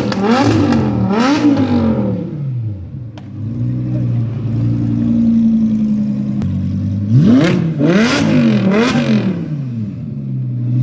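High-performance car engine revved hard in quick blips, rising and falling in pitch, settling to a steady idle in between. A second set of about three revs comes about seven seconds in.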